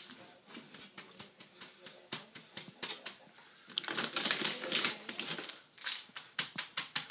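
Paper liner being patted and pressed down into a bird-cage tray: rapid, irregular clicks and rustles, busiest about halfway through.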